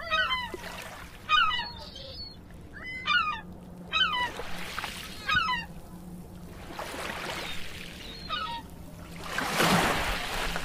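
Birds calling over and over, one short call with a falling pitch about every second. A swell of rushing noise rises and falls near the end.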